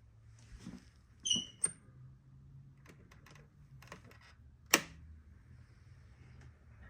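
Eating at the table: a utensil clinks twice against a dish about a second in, each clink ringing briefly, followed by light clicks and one sharp click a little before five seconds in, over a faint low hum.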